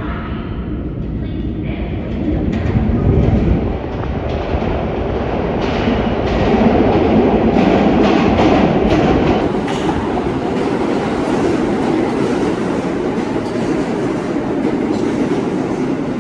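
New York City Subway L train cars running along the platform, a loud, steady rumble of wheels and motors that grows about two seconds in and is loudest in the middle.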